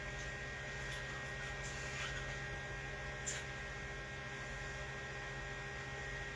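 Steady electrical mains hum, with a few faint brush strokes on canvas about one, two and three seconds in.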